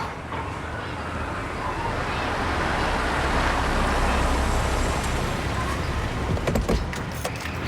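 Road traffic: a steady rush and low rumble of passing vehicles that swells about halfway through and then eases off, with a few small clicks near the end.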